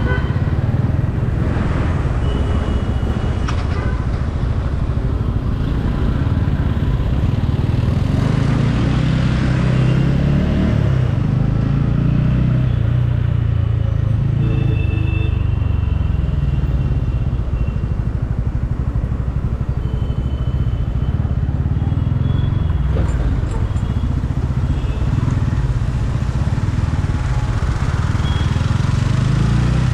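Motorcycle engine running under way through traffic, its pitch rising and falling with the throttle, with brief vehicle horns sounding several times.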